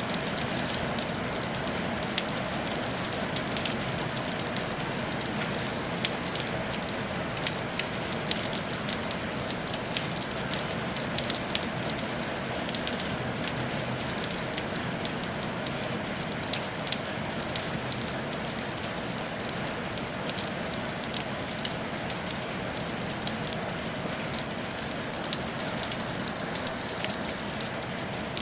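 Steady rain falling on a tile roof: an even hiss with many sharp ticks of individual drops over it.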